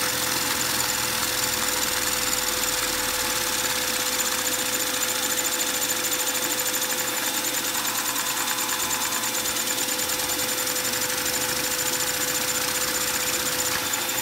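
A vacuum cleaner running steadily, a constant whine over rushing air, sucking on a single-cylinder Lego vacuum engine. The engine's piston and valve clatter quickly and evenly as it runs under the vacuum.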